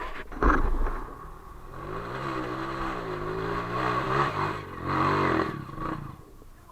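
Off-road motorcycle engine revving, its pitch wavering up and down for a few seconds, with a knock about half a second in.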